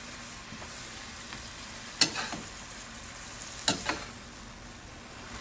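Sweet pepper, onion, garlic and ginger sizzling steadily as they sauté in a pot, with two sharp knocks of a stirring utensil against the pot, about two seconds and three and a half seconds in.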